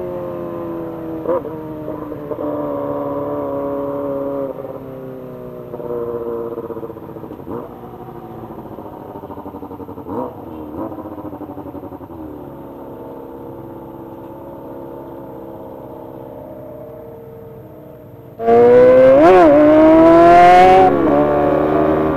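Kawasaki ZX-25R's 250cc inline-four engine under way, its high-pitched note easing slowly lower for most of the stretch. About eighteen seconds in it is suddenly much louder and revs hard, the pitch rising and dipping before it settles.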